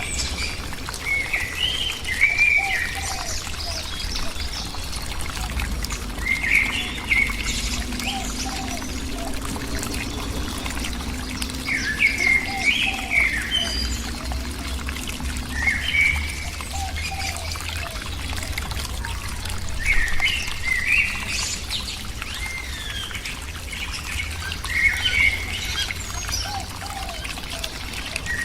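A bird repeats a short warbled phrase of chirping notes every four to five seconds, over a steady low rumble and a trickling, pouring sound.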